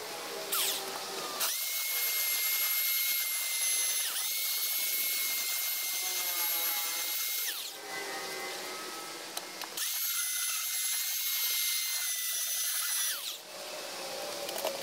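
Handheld electric power tool sanding the top layer of a black stain off marine plywood, its high-pitched motor whine running in three stretches. It cuts out briefly about four seconds in, then stops about halfway through and winds down. It starts again about ten seconds in and winds down near the end.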